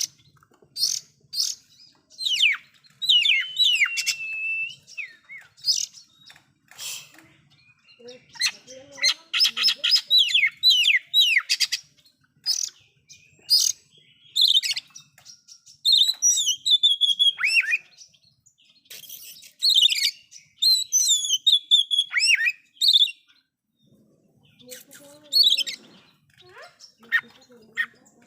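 Oriental magpie-robin (kacer) singing loudly: a varied song of whistled phrases, quick trills and gliding notes, with harsh lower notes here and there, in bursts broken by short pauses. The song is packed with mimicked phrases (isian).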